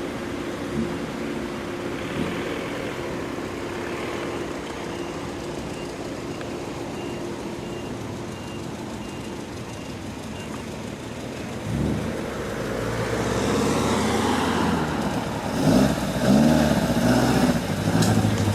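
A car engine running steadily. About twelve seconds in it gets louder, with its pitch rising and falling near the end.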